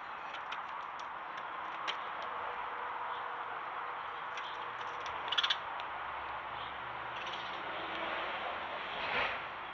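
Steady outdoor background noise with a few faint clicks, a brief cluster of sharp, rapid sounds about five and a half seconds in, and a short swell near the end.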